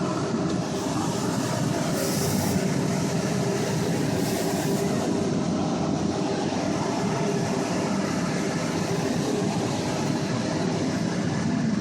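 Car engine running, heard from inside the closed cabin as a steady drone and rumble, with two brief hissing rushes about two seconds and four and a half seconds in.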